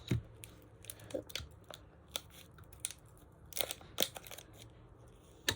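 Scissors snipping open a plastic powder sachet, with the packet crinkling: scattered short clicks and rustles.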